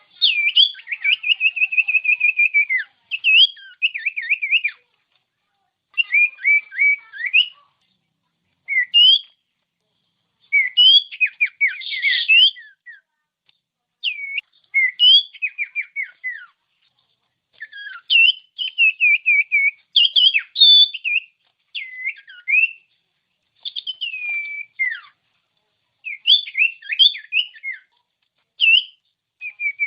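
Common iora (cipoh) singing: bursts of clear whistled notes, quick down-slurred trills and chattering phrases, repeated with short silent gaps between the bursts.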